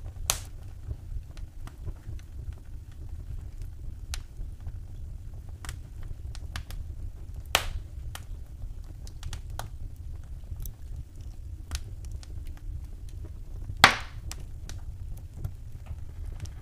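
Wood fire burning in a fireplace, crackling with scattered small ticks and a few louder pops, the loudest about two seconds before the end, over a steady low rumble of the flames.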